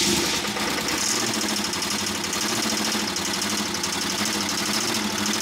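1988 Camaro IROC Z's V8 engine running rough on starting fluid, clanking steadily, which the owner takes for a rod knock from a spun rod bearing.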